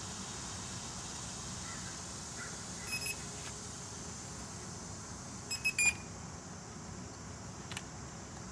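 Short electronic beeps from a Walkera QRX350 Pro quadcopter: one about three seconds in, then a quick run of three near the middle, the last the loudest, over a steady background hiss.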